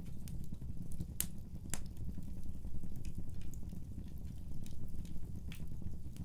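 Fireplace fire crackling, with a steady low rumble of burning under scattered sharp pops; the two loudest pops come about a second in and half a second later.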